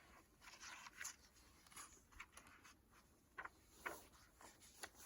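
Near silence with a few faint, brief rustles and soft clicks.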